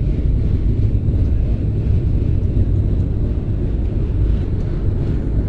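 Steady low rumble inside an Indian Railways AC 3-tier train coach.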